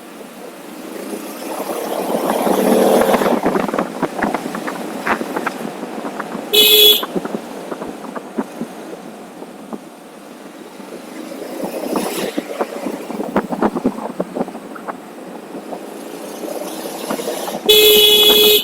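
A vehicle horn beeping twice, a short beep about a third of the way in and a longer one of about a second near the end. Underneath is a rushing of wind and road noise with crackling, which swells and fades twice.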